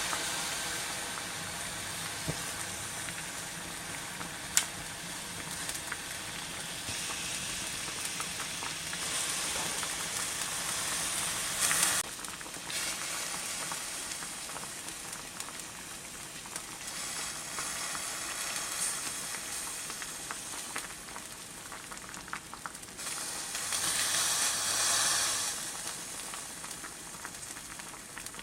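Food frying with a steady sizzle. There is a sharp click about four and a half seconds in, an abrupt change about twelve seconds in, and a louder swell of sizzling around twenty-four seconds.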